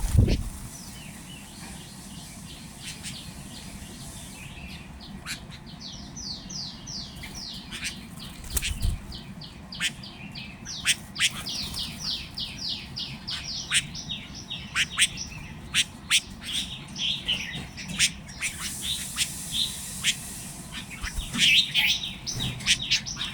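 Small birds chirping in quick runs of short, falling notes, often overlapping, with scattered sharp clicks among them.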